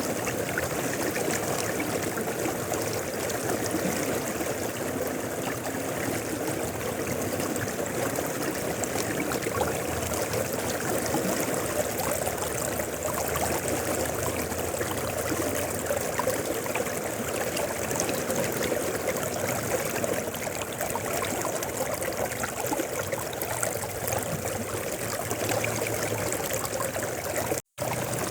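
River flowing steadily, a continuous babbling water sound with no change in strength. A split-second break cuts the sound once near the end.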